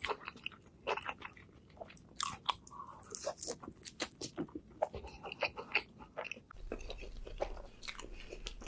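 Close-miked eating of a burger meal: bites and chewing with crisp, irregular crunching. A low steady hum comes in about two-thirds of the way through.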